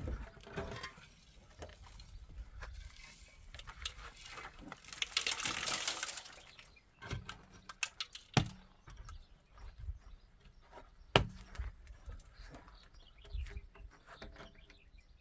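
Building work: a stretch of scraping, rushing noise about five seconds in, then a few sharp, separate knocks.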